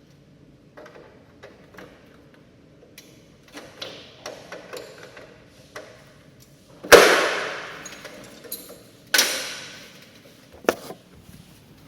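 Handling noises from working on a split air conditioner indoor unit's refrigerant pipe connections: scattered light clicks and taps, then two loud knocks that each ring on briefly, about seven and nine seconds in, and a sharp click near the end.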